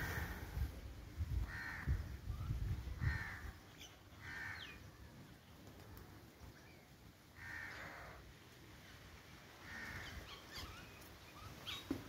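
Birds calling: about five separate calls spaced one to three seconds apart, with faint, higher chirps from other birds in between. A low rumble of wind or handling on the microphone runs through the first few seconds.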